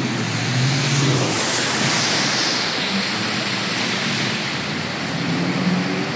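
Heavy rain pouring down, a steady even hiss, with a brief brighter swell of hiss about a second and a half in.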